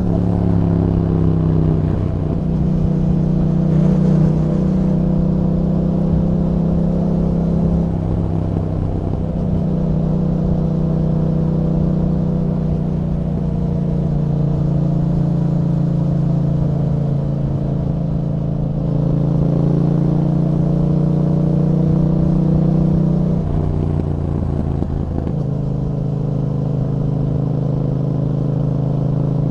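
2021 Yamaha MT-07's parallel-twin engine running through an Akrapovič exhaust while riding. It holds steady notes that shift to a new pitch in steps several times.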